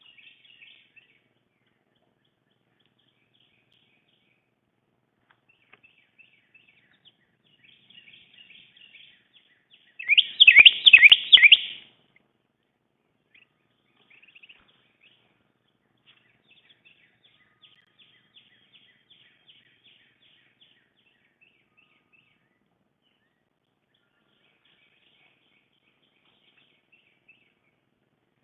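Small songbirds chirping faintly and intermittently, with one loud, rapid run of quick sliding notes lasting about two seconds a little over a third of the way through.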